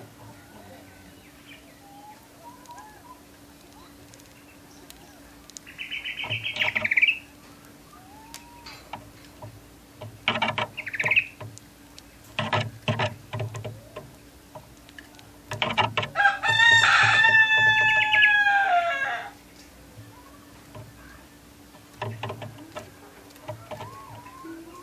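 Yorkshire-cross canary giving short, rapid trills and chirps, among scattered sharp knocks. About sixteen seconds in, a rooster crows loudly for about three seconds, its call falling at the end.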